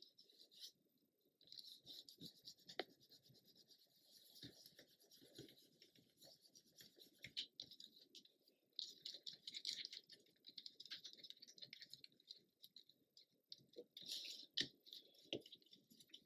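Faint, irregular rustling and scratching of paper being handled and slid about on a work surface, with a few light taps.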